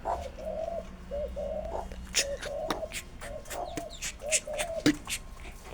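A bird calling over and over in short, low, slightly wavering notes, with a few sharp clicks in between.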